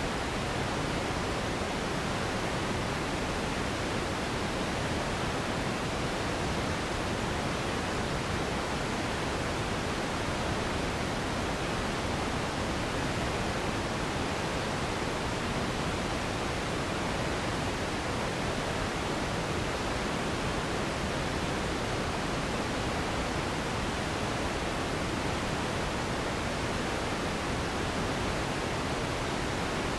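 Steady generated noise for sleep: an even, unchanging hiss spread across the whole range, fuller in the lows and thinning out in the highest treble.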